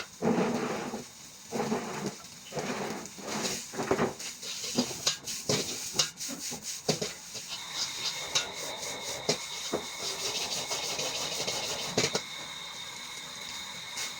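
Fried rice sizzling in a hot wok, a steady hiss, with many sharp metal clicks and scrapes from the spatula or ladle against the pan.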